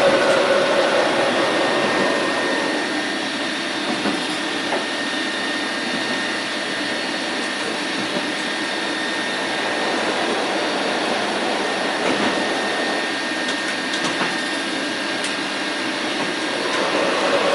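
Steady running noise of a train in motion, an even hiss and rumble with a faint high whine, easing slightly about two seconds in and swelling again near the end.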